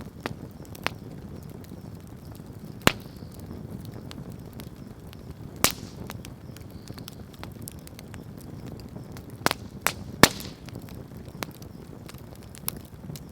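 Wood bonfire burning: a steady low rumble of flame with sharp crackles and pops every few seconds, and a quick run of three loud pops about nine and a half to ten seconds in.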